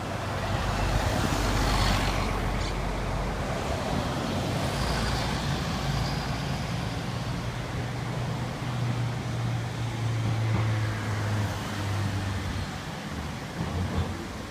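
A diesel city bus running as it passes by, with a steady low engine hum and a rush of road noise that swells about two seconds in and again near ten seconds.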